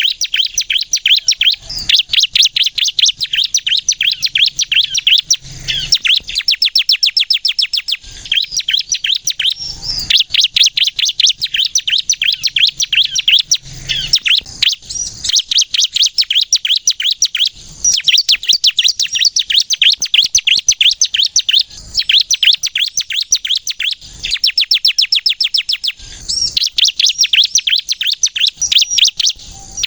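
Bar-winged prinia (ciblek kristal) singing persistently in long, loud phrases of very rapid, high trilled notes, each phrase broken off by a brief pause every couple of seconds.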